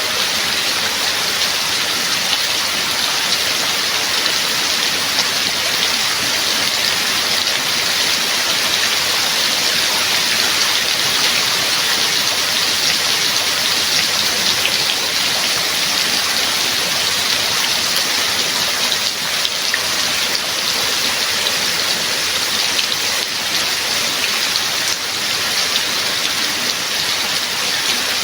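Steady rain falling, a dense even hiss with many small drop impacts.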